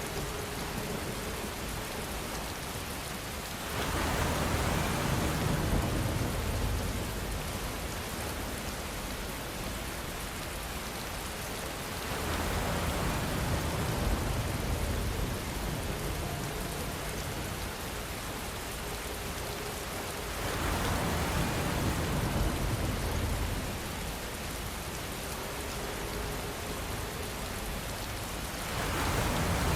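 Steady rainfall hiss. About every eight seconds it swells for a few seconds, heavier and with a deeper rumble underneath, then settles back.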